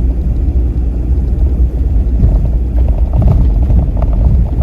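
Force Gurkha 4x4 driving on a mountain road, heard from inside: a steady low rumble of engine and road, with short rattles and knocks from about halfway through.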